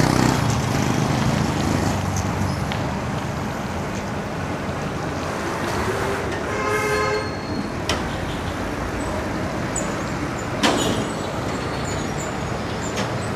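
Steady road traffic noise heard from a moving bicycle. A vehicle horn sounds once for about a second, about six seconds in, and a sharp click follows near the eleven-second mark.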